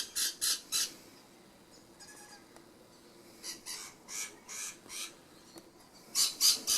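A bird giving runs of short, harsh squawks, about four a second, in three bursts: at the start, in the middle and near the end.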